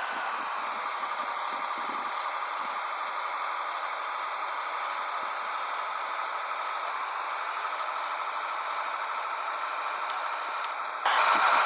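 Steady rushing noise with rattling, as heard inside a truck cab on the move; it turns abruptly louder near the end.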